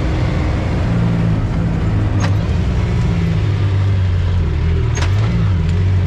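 An off-road vehicle engine running steadily under way, its note shifting a little a few seconds in. Two sharp clicks come about two seconds in and again near five seconds.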